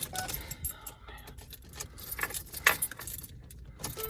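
A bunch of keys jangling and clicking irregularly, handled at the ignition of a Ford Transit van with a flat battery, with no engine running. A short electronic chime sounds at the very end.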